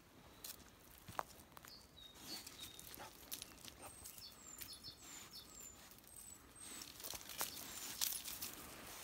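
A small bird gives a string of short, high, falling chirps, most of them between about four and eight seconds in. Under them, footsteps crunch now and then on stony gravel.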